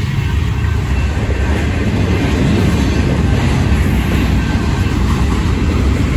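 Freight train passing close by: hopper cars and boxcars rolling on steel wheels over the rails, a steady rumble that grows louder over the first couple of seconds.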